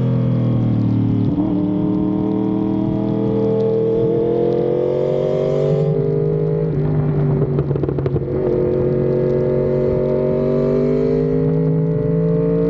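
Yamaha R1M's crossplane inline-four running through an SC-Project exhaust at track speed, its pitch climbing steadily under acceleration. About seven seconds in the note turns rough and irregular for a second or so, then it pulls and climbs again.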